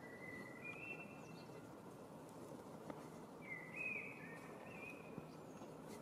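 A songbird whistling two short phrases, one at the start and a longer one about three and a half seconds in, over faint steady background noise.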